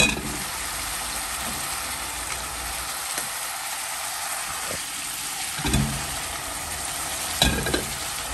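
Sliced onions and minced beef sizzling in hot oil in a pot while being stirred with a wooden spatula, a steady frying hiss. The spatula knocks against the pot a few times, loudest near six seconds and again about a second later.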